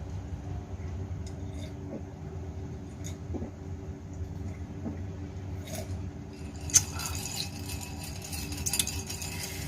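A drink and its glass being handled over a steady low hum: a few soft knocks, one sharp click about seven seconds in, and light glass clinking near the end.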